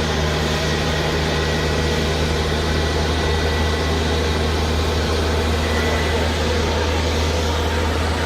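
Airbus A320 jet airliner noise: a steady low hum under an even rush, with a faint high whine, holding constant without spooling up or down.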